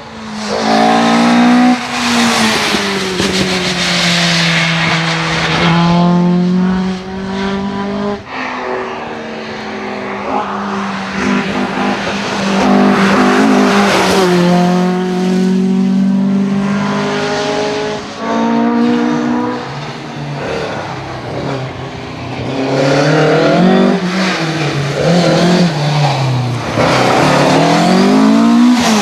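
Rally car engines driven hard, revving high with repeated gear changes, so the note climbs and drops again and again, with tyre noise.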